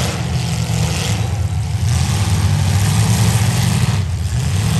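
Several demolition derby cars' engines running together, a loud, steady low drone.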